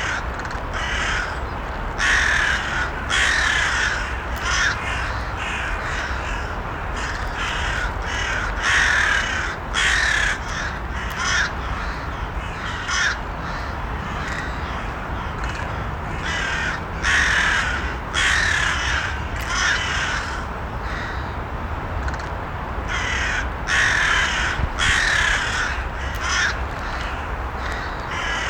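Crows cawing again and again, harsh calls often in quick runs of two or three, over a steady low background noise.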